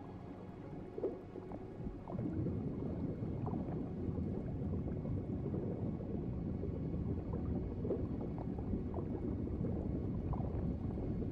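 Underwater ocean ambience: a low, steady rumbling wash of water that grows louder about two seconds in, with short, faint higher bubbling sounds scattered through it.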